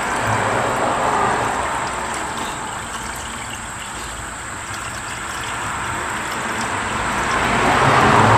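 Coolant being poured into the intercooler coolant reservoir of a Ford F-150 Lightning: a steady pouring of liquid, dipping in the middle and louder again near the end.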